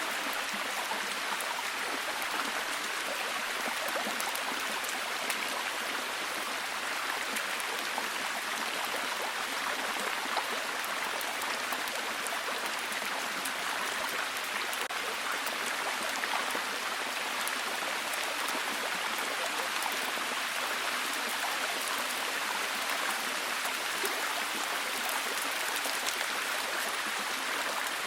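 Steady, heavy rain falling, a dense even hiss with many fine drop patters throughout.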